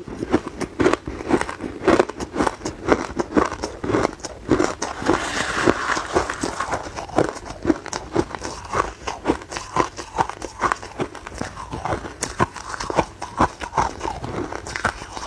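Hard ice cubes being chewed: a continuous run of sharp crunches, several a second, with a denser crackling stretch about five seconds in.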